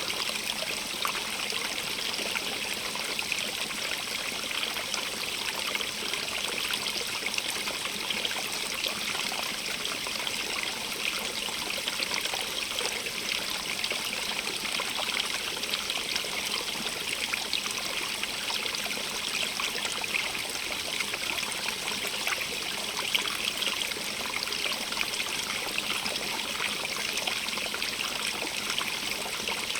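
Running water flowing steadily: an even rush with fine, continuous trickling splashes, bright and hissy.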